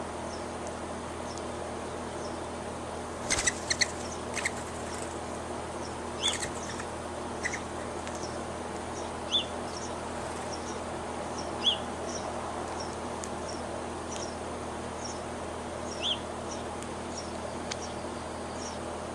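Small birds chirping in short, sharp calls, with a quick flurry about three seconds in and again about six seconds in, then single chirps every few seconds. Under them runs a steady hiss of insects with faint high chirps.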